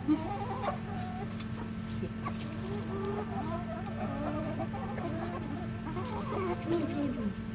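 A flock of chickens clucking, with many short overlapping calls, over a steady low hum.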